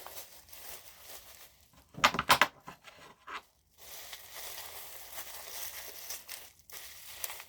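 Plastic packaging being handled and unwrapped by hand: crinkling and tearing, with a loud burst of crackling about two seconds in and steadier rustling from about four seconds on.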